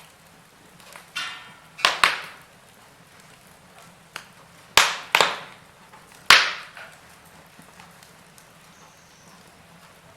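Wood fire burning in a fireplace, crackling with sharp pops. There are about seven loud snaps, two of them in quick pairs, over a faint steady background.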